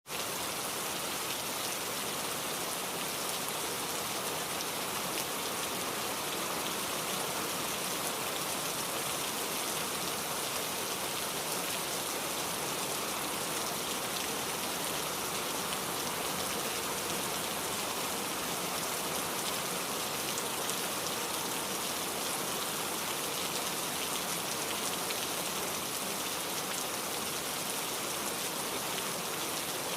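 Heavy rain falling steadily: an even hiss with a fine patter of drops, unchanging throughout, with no thunder.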